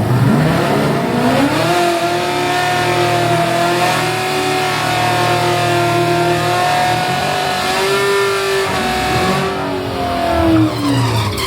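Car engine revved up over about two seconds, held at high revs for several seconds, then falling back near the end.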